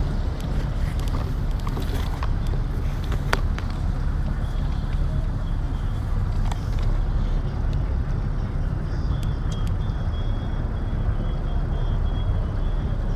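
Motorboat underway: the engine runs as a steady low drone under a rush of wind and water.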